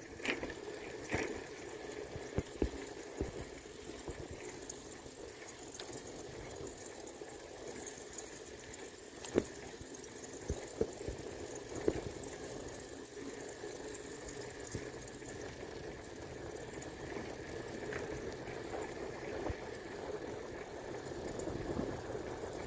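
Steady rushing noise of a bicycle ride, tyres and wind, with scattered sharp knocks and rattles.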